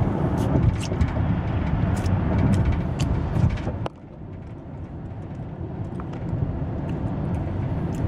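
Car road and engine noise heard inside the cabin while driving: a steady low rumble that drops noticeably about four seconds in, with scattered small clicks.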